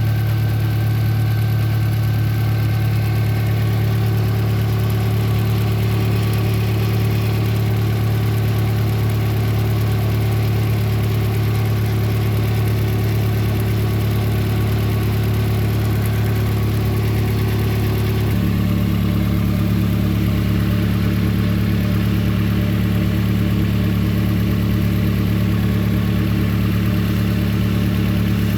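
Toyota 4E-FTE 1.3-litre turbocharged four-cylinder engine idling steadily. About two-thirds of the way through, its tone shifts slightly as a deeper hum strengthens.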